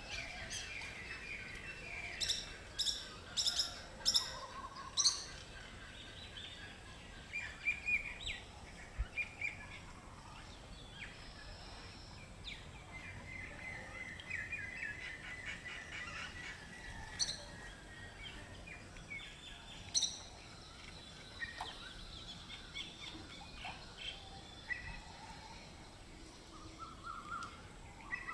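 Birds chirping and calling, with a quick series of sharp calls a few seconds in and a rapid trill around the middle.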